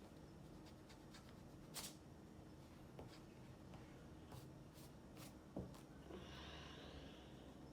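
Near silence: room tone with a few faint scattered clicks and a soft rustle about six seconds in.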